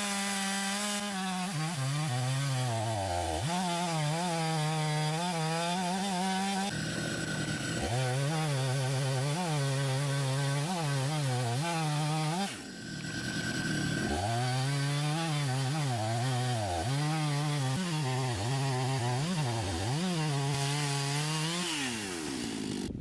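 Chainsaw mounted in a log-milling guide, running hard and cutting through a log, its engine note repeatedly dipping under load and picking up again. The engine note breaks off briefly twice, about a third of the way in and again just past halfway.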